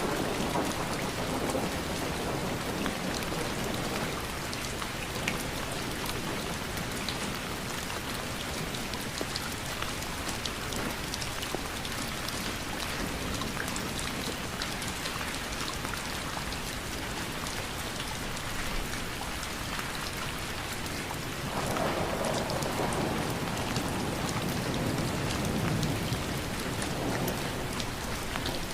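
Steady rain falling, a dense patter of drops. A low rumble swells up at the start and again from about 21 to 27 seconds in, when it is loudest.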